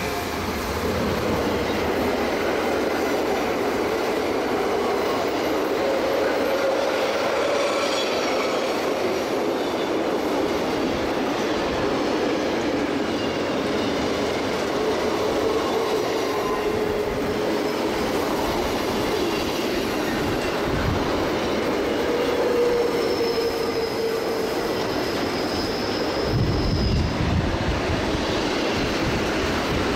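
Train running on the Semmering mountain railway: a steady rolling noise with thin, wavering wheel squeal, a higher squeal a little over two-thirds of the way through, and a deeper rumble near the end.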